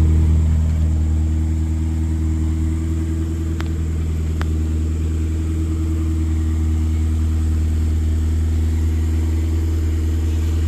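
1959 Morris Minor's four-cylinder A-series engine idling steadily, heard from the engine compartment, with two faint clicks near the middle.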